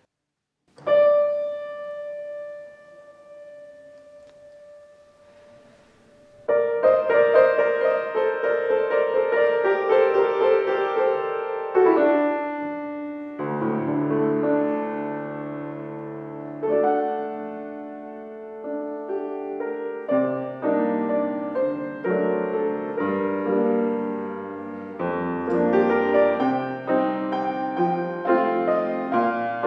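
Piano music: a single note struck about a second in and left to ring and fade, then from about six seconds in a slow piece of chords and melody.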